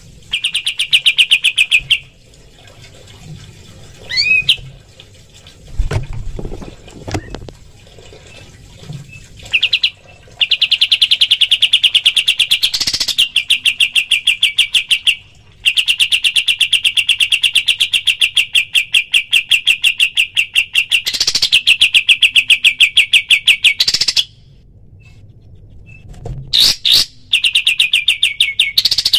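Pied triller (kapas tembak) singing its rapid-fire 'tembakan' song: long runs of fast, evenly repeated high notes lasting several seconds each, broken by short pauses. A brief rising whistle comes about four seconds in, and a few soft low thuds follow around six seconds in.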